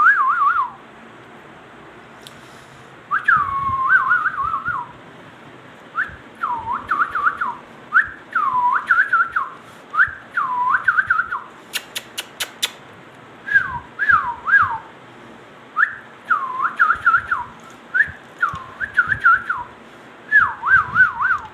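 Pet parrot whistling a short, repeated phrase about every two seconds, each one a downward swoop followed by a quick wavering trill. About halfway through, a quick run of sharp clicks.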